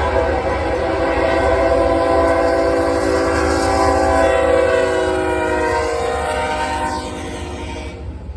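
Florida East Coast Railway locomotive's air horn sounding a long multi-tone chord as the train passes, its pitch sliding down as it goes by, then cutting off near the end over the rumble of the train.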